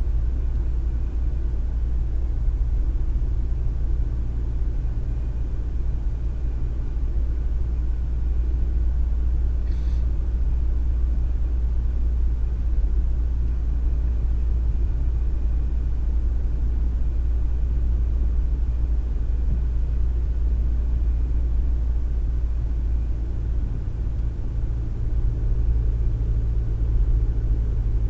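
Car driving steadily at road speed, heard from inside the cabin as a constant low rumble of engine and road noise, with a faint click about ten seconds in.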